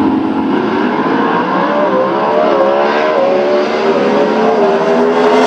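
Race car engine at full throttle, its pitch climbing and wavering over the first few seconds, then holding steady.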